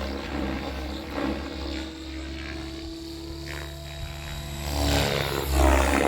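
XL Power 550 electric RC helicopter in 3D flight: a steady rotor-and-motor drone whose blade noise swells and fades as it swoops about, loudest near the end.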